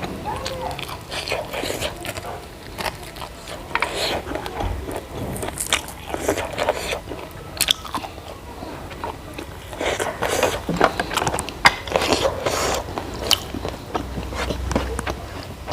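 Close-miked eating: biting into and chewing food, with irregular crunches and clicks from the mouth.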